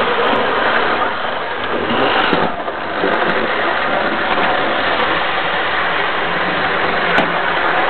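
00-gauge model locomotive running on its track: a steady motor whirr with wheel and rail noise, easing for a moment about two and a half seconds in.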